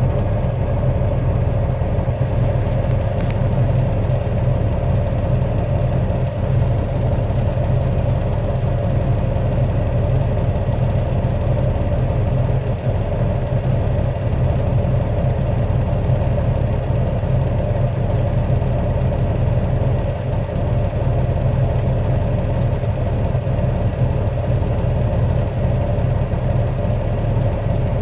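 Pile driver's machinery running with a steady, heavy drone, with no separate hammer blows standing out.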